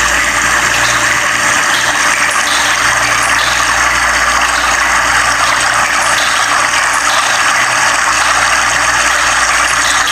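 Steady rush of flowing water, with a low steady hum beneath it.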